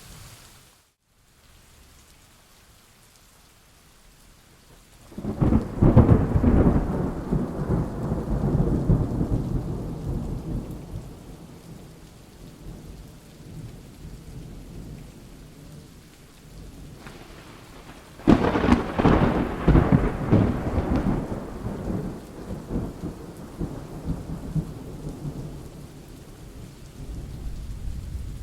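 Thunderstorm: steady rain with two rolls of thunder, the first breaking about five seconds in and the second about eighteen seconds in, each starting suddenly and rumbling away over several seconds. The rain briefly drops out about a second in.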